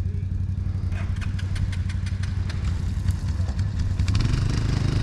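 ATV engine running at a steady idle, with a run of light clicks and rattles about a second in; the engine picks up slightly near the end.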